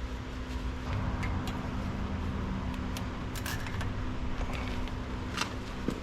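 Steady engine-like hum with a few short sharp clicks over it, as a zip tie is pulled tight around the grapple's hydraulic hoses.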